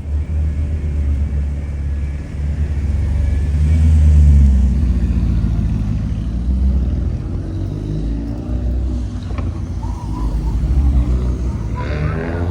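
A car engine running close by with a deep exhaust rumble that rises in pitch and swells loudest about four seconds in, then settles back to a steady lower rumble.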